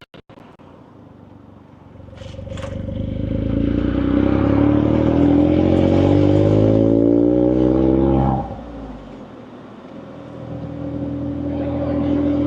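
Suzuki Jimny JB64's 660 cc turbocharged three-cylinder exhaust through an HKS Legal aftermarket muffler, heard from a microphone mounted outside the car: the engine pulls for about six seconds with steadily rising pitch, drops off suddenly, then builds again near the end. There are brief dropouts at the very start.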